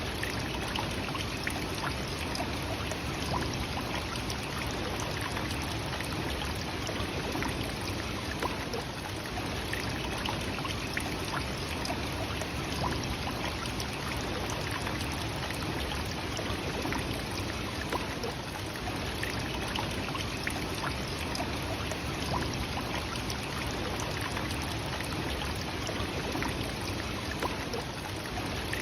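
Nachi Falls, a tall single-drop waterfall, with the water falling and splashing in a steady, unbroken rush.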